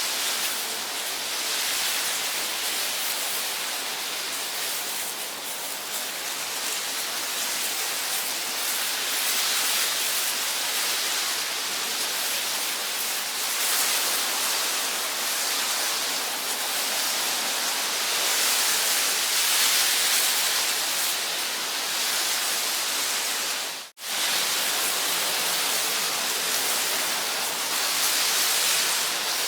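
Steady rush of flowing water, an even hiss with no distinct splashes, cutting out for an instant about 24 seconds in.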